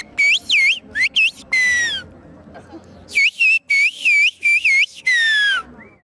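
Whistled Turkish, the Black Sea whistled language (ıslık dili, 'bird language'): a person whistling speech as quick swooping phrases, each run ending in a long falling whistle. Two runs are heard, about a second apart.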